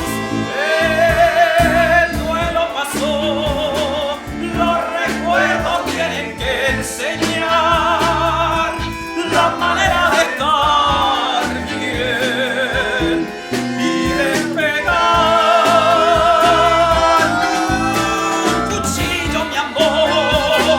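A live band plays an instrumental passage: drums and bass keep the beat under guitar, while a lead melody with strong vibrato carries the tune.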